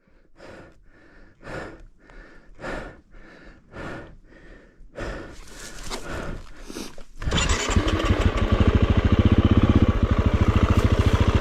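Dirt bike engine catching suddenly about seven seconds in and then running with a fast, even beat, after a run of short, repeated noisy strokes.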